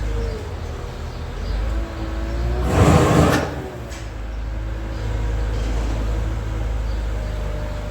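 Tractor engine running steadily, with a short, loud rushing burst about three seconds in.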